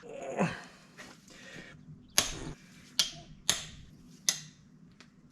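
A few sharp, separate metal knocks with a brief ringing after each, from hand tools working on the damper and pulley of a Cummins C160 diesel engine under teardown.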